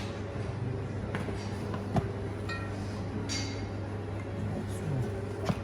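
Metal tools clinking, scraping and knocking on a driveshaft centre support bearing as it is worked out of its rubber mount. There is one short ringing metallic chink, and sharp knocks about two seconds in and near the end, over a steady low hum.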